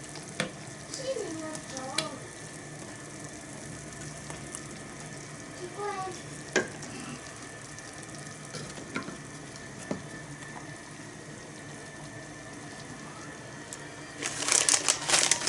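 Kimchi hot pot in a small cast iron pot simmering over a mini campfire stand, a steady bubbling sizzle with scattered small crackles. It turns to a louder, busier clatter of noise near the end.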